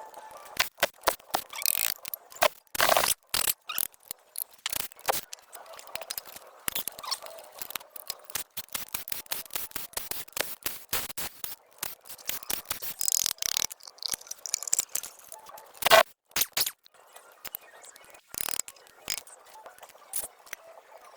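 An irregular run of sharp clicks and short scrapes, with one especially loud click about sixteen seconds in.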